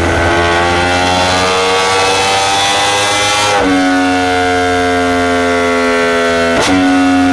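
Yamaha R1 inline-four engine through an aftermarket exhaust, revs climbing steadily for about three and a half seconds, then dropping sharply as at a gear change and running steady again, with a short crack near the end.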